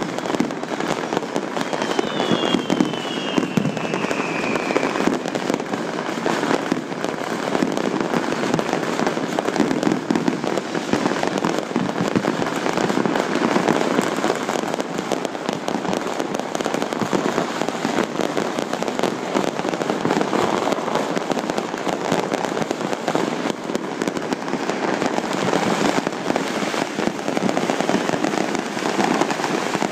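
Fireworks going off without pause: a dense, continuous crackle of many small bangs. A falling whistle runs through it about two seconds in.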